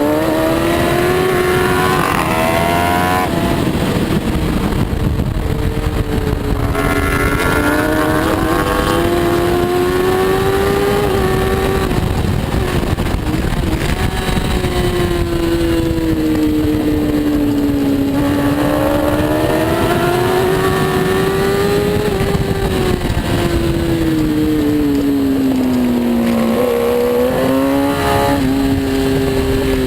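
Superbike racing motorcycle engine at high revs, its pitch climbing and falling again and again as it is ridden hard. There are sharp steps in pitch near the start, about a quarter of the way in and near the end, all over a steady rushing noise.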